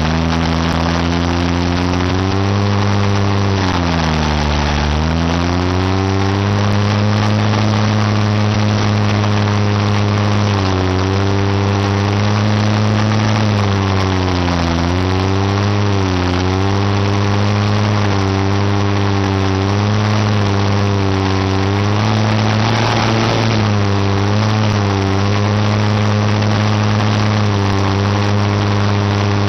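Engine idling steadily at low revs, its pitch sagging briefly and recovering several times, around four seconds in, twice mid-way and again near the end.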